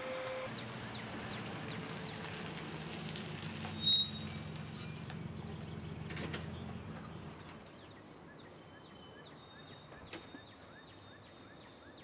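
A low steady hum for the first seven seconds or so, with a brief high chirp about four seconds in. After that, quieter background with birds chirping repeatedly, about two short calls a second.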